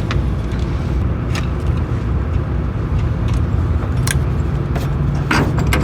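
Low, steady vehicle rumble with a few sharp clicks and knocks.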